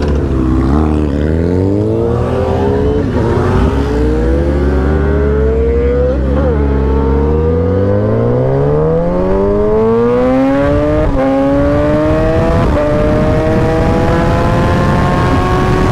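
Motorcycle engine accelerating hard up through the gears, its pitch climbing in each gear and dropping at each of several upshifts.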